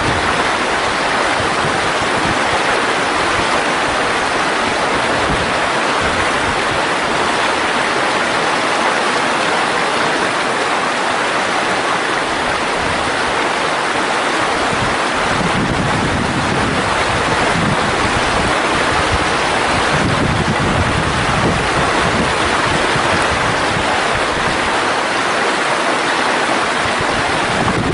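Mountain stream rushing steadily over rocks in a valley: a loud, even wash of water.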